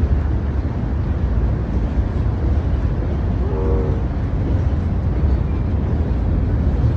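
CSX freight train passing over the bridge with a steady low rumble, and a brief tone about three and a half seconds in.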